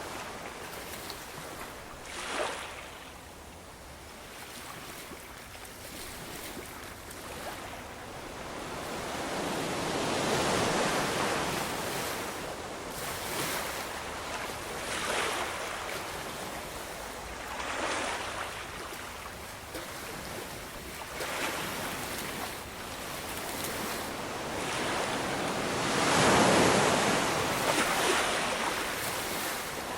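Ocean waves breaking and washing up the shore, surging and receding in slow swells. The two biggest waves crest about ten seconds in and again a few seconds before the end.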